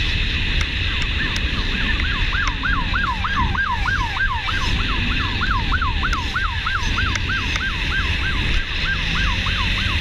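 Emergency vehicle siren in a fast yelp, its pitch sweeping up and down about four times a second, over steady road and wind noise.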